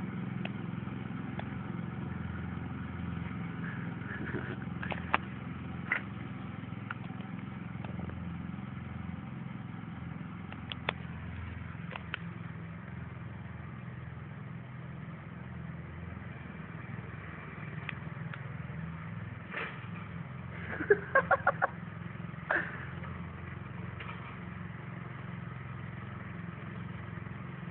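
Small lawn tractor (riding mower) engine running steadily while mowing grass, a low even hum with a few scattered short clicks and a brief cluster of sharper sounds about 21 seconds in.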